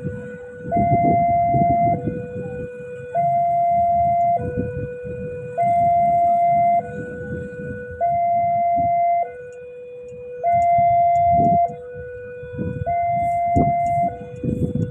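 Railway level-crossing warning alarm sounding a steady hi-lo two-tone signal, each tone held about a second and a fifth, the higher tone louder. Under it runs a low rumble of engine and traffic noise. The alarm signals that a train is approaching the crossing.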